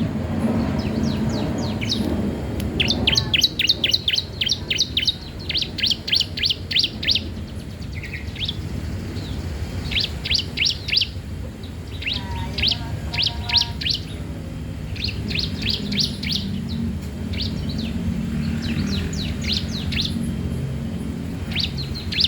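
Young cisem songbird singing continuously: quick runs of sharp, high chirping notes in repeated phrases with short breaks between them, over a steady low background hum.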